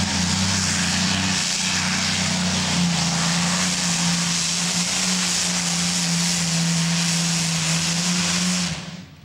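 Modified pulling tractor's engine, fitted with aircraft ignition (two spark plugs per cylinder), running at full power under load during a pull. The sound is loud and steady, and it cuts off suddenly near the end.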